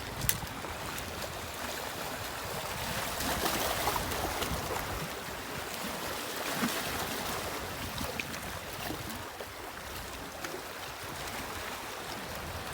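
Sea waves washing on the shore, a steady rush of water that swells for a moment a few seconds in.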